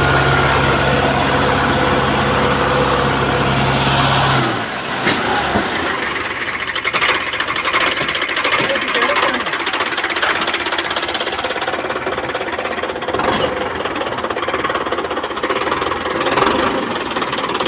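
Tractor diesel engine running with a steady low hum; about four and a half seconds in the hum drops off and a loose clattering, knocking rattle carries on.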